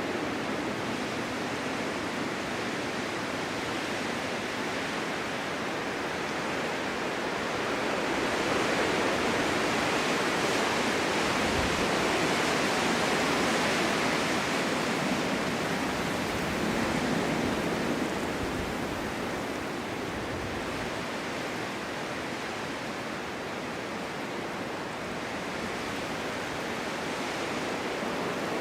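Strong winter wind blowing steadily in a snowstorm, a rushing noise that swells into a stronger gust about a third of the way in and eases off again later.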